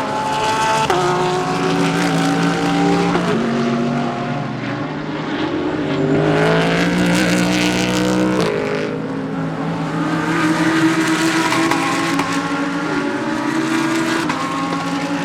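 GT3 race cars running past at racing speed, their engines at high revs with sharp pitch drops at gear changes; about five seconds in one engine climbs steadily in pitch under acceleration, then drops at a shift. More than one car is heard at once.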